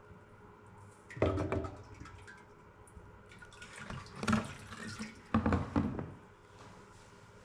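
Hydraulic oil splashing and dripping back into the tank in three short bursts as the strainer is lifted out of the hydraulic tank.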